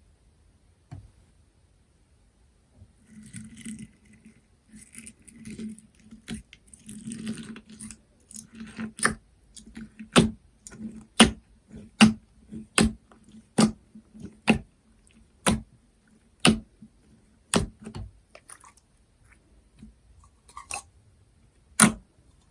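Clear, watery jelly slime being squished and worked by hand, with soft wet crackling at first. Then come sharp pops about once a second as the slime is pressed and folded, and two more pops near the end.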